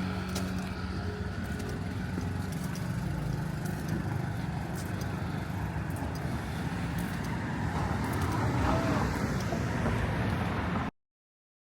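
Street traffic: vehicle engines running and passing, with a steady engine hum that fades over the first few seconds and scattered light clicks. The sound cuts off abruptly near the end.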